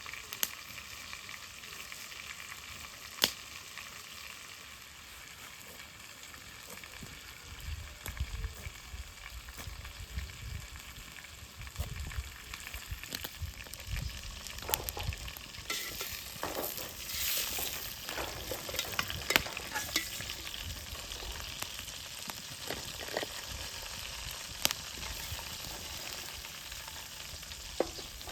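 Food sizzling as it fries in a pan, stirred with a utensil that clicks and scrapes against the pan now and then, with a few sharper knocks.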